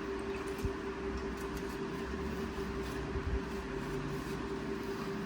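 A steady machine hum with one constant mid-pitched tone and a low rumble underneath, plus a few faint knocks.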